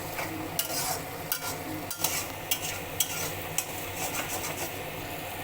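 Spice paste frying in oil and ghee in a kadai, sizzling steadily while a spatula stirs it, with several sharp clicks and scrapes of the spatula against the pan.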